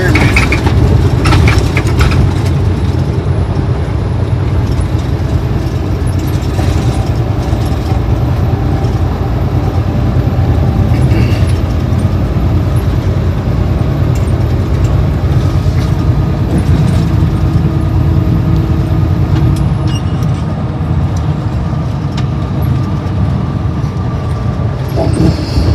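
Steady low road rumble of a car driving along, heard from inside the cabin.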